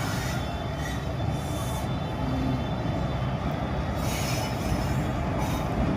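Train hauled by a WAP-4 electric locomotive rolling into the station: a steady low rumble of wheels on rail with a faint, thin, high-pitched wheel squeal, and two brief hisses in the second half.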